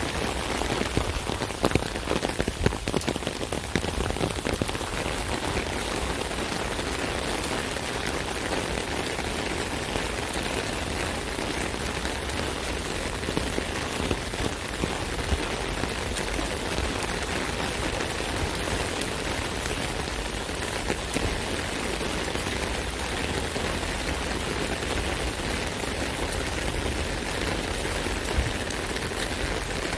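Rain falling on an umbrella: a steady patter of drops striking the canopy, with heavier single drops standing out here and there, most often in the first few seconds.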